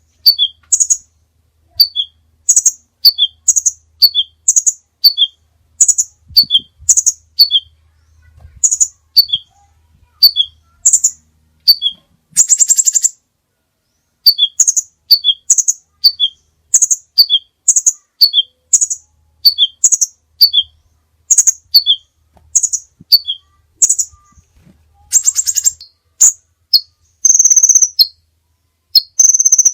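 A songbird singing a rapid, repeating phrase of short high chirps that step down in pitch, broken by a few longer buzzy trills about twelve seconds in and again near the end. It is the kind of loud, clean song used as a masteran recording for training caged songbirds.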